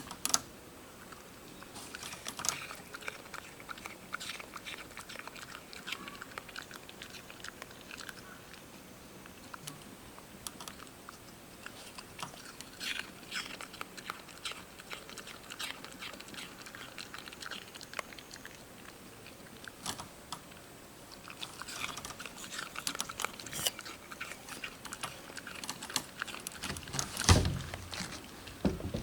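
Crunchy chewing and biting: irregular crunches all through, with one loud thump near the end.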